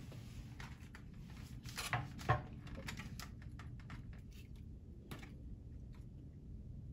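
Scattered light clicks and knocks from objects being handled, with two louder knocks about two seconds in, over a low steady hum.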